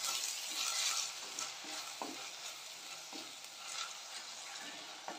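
Chopped tomato, onion and salt sautéing in oil in an earthen clay pot, sizzling as a wooden spatula stirs them, with a few light knocks of the spatula against the pot. The sizzle fades gradually.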